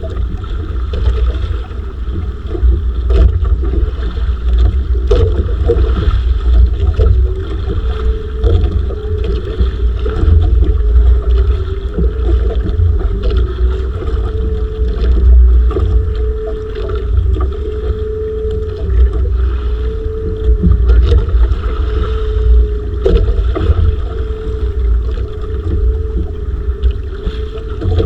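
Motorised bangka's engine running at a steady drone with a slightly wavering pitch, with wind buffeting the microphone.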